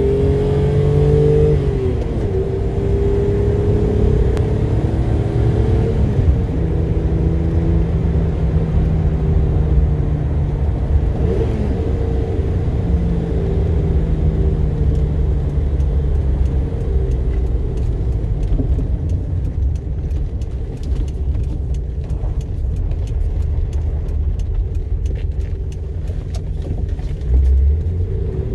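The BMW M635CSi's straight-six engine is heard from inside the cabin. In the first dozen seconds it pulls up through the gears, its pitch climbing and then dropping at each change. It then settles into a steady cruise over a constant low road rumble.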